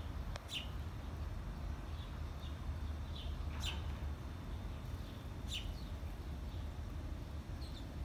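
Small birds chirping: short, sharp calls that drop quickly in pitch, about seven of them at uneven intervals, over a steady low rumble.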